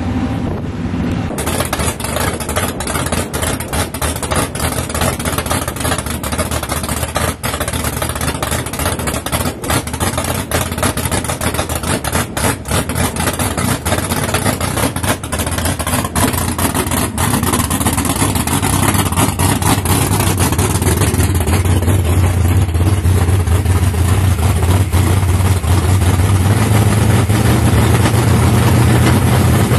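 Drag race car engine idling loudly with an uneven, crackling lope. Its low drone grows louder over the last third.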